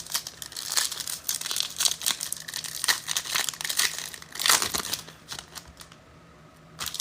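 Foil trading-card pack wrapper crinkling and tearing open, irregular crackling handling that dies down about five seconds in.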